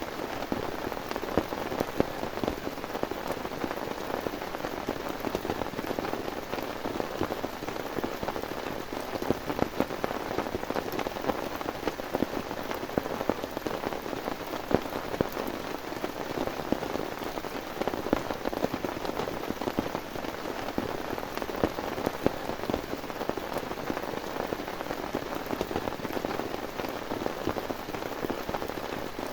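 Heavy rain falling steadily, with a dense run of close drops striking a surface over the even hiss.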